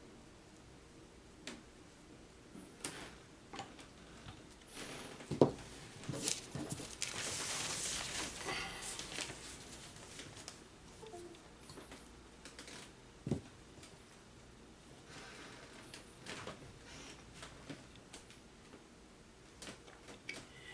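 Handling noises at a calligraphy table: scattered light taps and clicks, with a sharp knock about five seconds in and another near the middle, and a couple of seconds of soft rustling, as of paper or a brush moving on paper, a little after the first knock.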